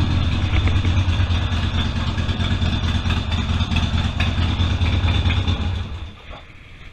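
Harley-Davidson Sportster's V-twin engine idling, then cutting off about six seconds in as the engine is shut down.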